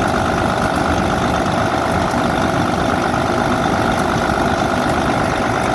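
Volvo FH13 truck's diesel engine idling steadily after an engine rebuild.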